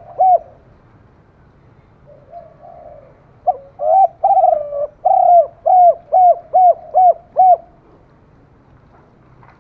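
Spotted dove cooing: the tail of one run of short coos at the start, then about three and a half seconds in a new phrase of a few longer coos followed by a quick run of about eight short, evenly spaced coos, ending near the eight-second mark.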